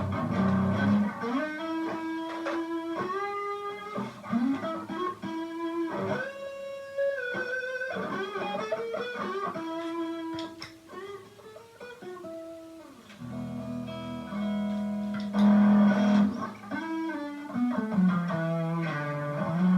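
Electric guitar, a Strat copy played through a mini amp head into a Vox BC108 cabinet, playing single-note lead lines with slides and bends. From about 13 s in it moves to lower, fuller chords.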